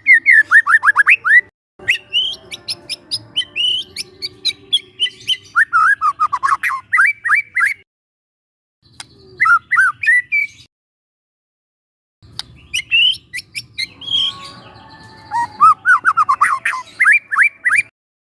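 Young white-rumped shama (murai batu) singing: rapid runs of repeated down-slurred whistles and sharp high chips, in several loud phrases separated by short silences.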